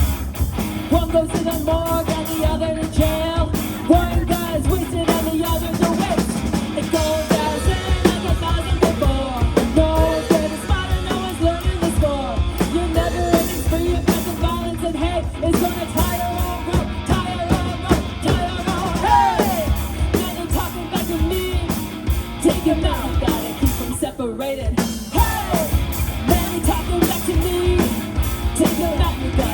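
Live rock band playing a punk-rock song, with electric guitar, bass and a drum kit keeping a steady driving beat and some singing over it.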